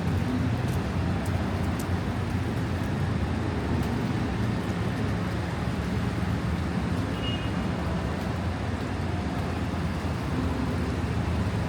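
Steady city street noise with traffic, a constant low rumble throughout. A few faint clicks in the first two seconds.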